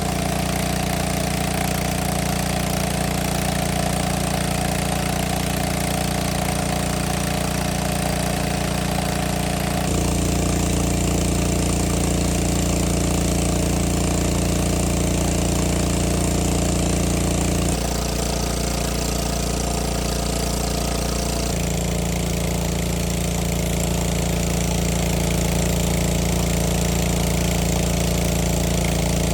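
A small boat engine running steadily with a fast knocking beat. Its tone changes abruptly about 10, 18 and 21 seconds in.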